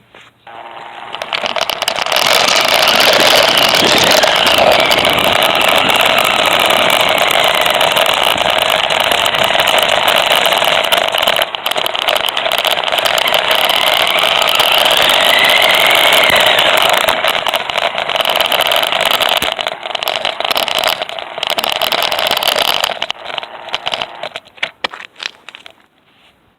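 New Bright Reaper RC car's electric drive motor and gearbox whining as the car runs. It starts about two seconds in, its pitch rising and falling a little as it speeds up and slows, and it dies away a few seconds before the end.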